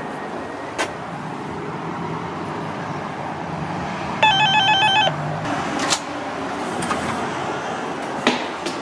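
Steady car running noise, with a rapid trilling electronic beep for about a second, about four seconds in, and a few sharp clicks.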